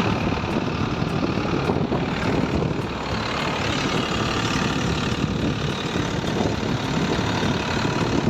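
Tractor engine running steadily, a loud, dense mechanical noise.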